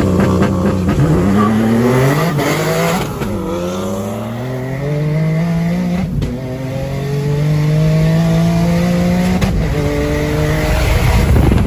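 Car engine accelerating hard through the gears, its pitch climbing steadily and dropping sharply at each upshift, about three times.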